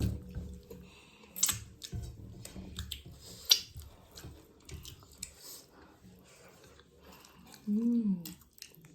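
Close-up eating sounds of mutton curry and rice: chewing and mouth smacks with scattered sharp clicks. A short hum that rises and falls comes near the end.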